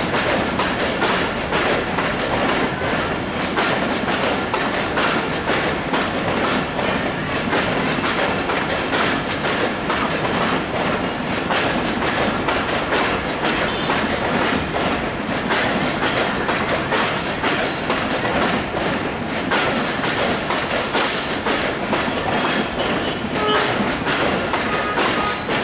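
Passenger train coaches rolling past, their wheels clattering steadily over the rail joints.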